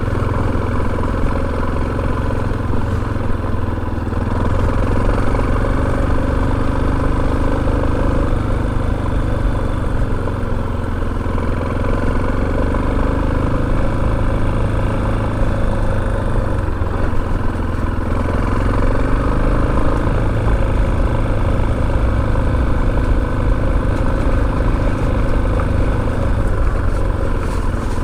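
Motorcycle engine running steadily while riding, its pitch shifting only slightly, over a strong low rumble.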